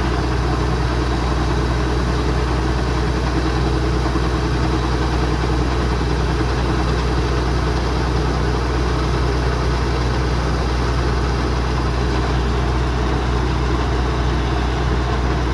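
Kubota DC-105X combine harvester's diesel engine running at a steady, unchanging speed.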